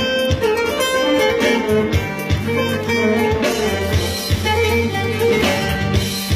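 Instrumental introduction of a Turkish song: a plucked-string melody over a steady bass line, with bowed strings and light drum hits.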